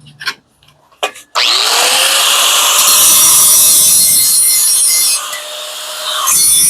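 A few light knocks, then a handheld power tool starts about a second and a half in. Its motor spins up to a steady pitch under a loud, harsh working noise as it bites into the machine's metal housing. The noise eases about five seconds in, then bites hard again briefly near the end.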